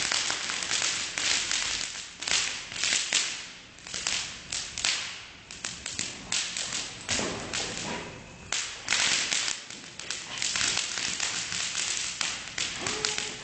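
Bonfire crackling with many sharp, irregular snaps and pops as the burning material splits.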